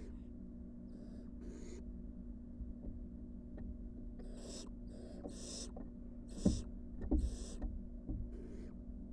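Barn owl nestlings giving short, rasping hissing calls, one after another in a loose series, with a pause in the middle. Two dull thumps about six and a half and seven seconds in, the loudest sounds, come from the owlets moving about in the wooden nest box.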